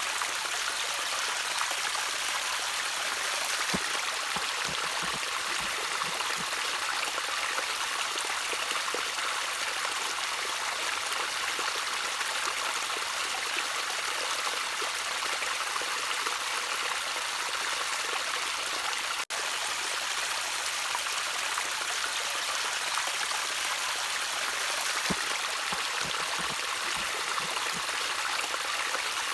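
Gently trickling stream water, a steady rushing hiss with a few low gurgles now and then. The sound drops out for a split second about two-thirds of the way through.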